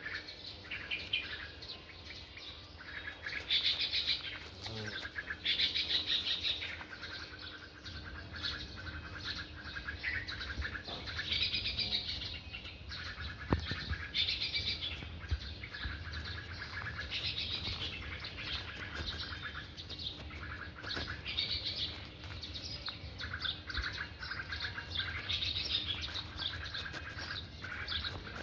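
Small birds chirping in a tree: runs of quick, repeated chirps and trills, coming again every second or two. A single sharp click about halfway through.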